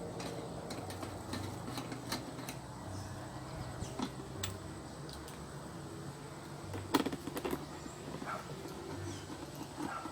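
Scattered light metallic clicks and taps of hand tools and small engine parts being handled as the engine is bolted back together, with a quick cluster of clicks about seven seconds in, over a low steady hum.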